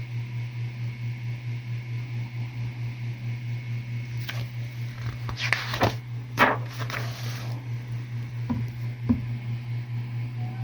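Several short rustles and crinkles of large paper calendar pages being handled and turned, clustered in the middle, over a steady low hum in the room.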